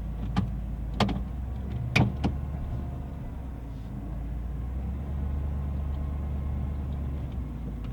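An engine running steadily with a low hum, with a few sharp clicks or knocks in the first couple of seconds.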